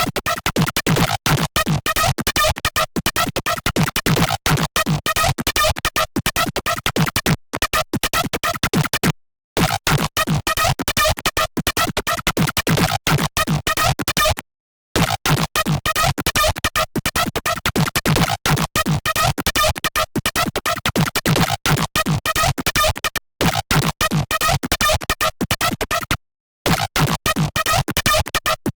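Serum software synthesizer playing a patch built from an image-derived wavetable: a fast, stuttering stream of short gritty electronic notes over a low bass, which cuts off dead and restarts several times.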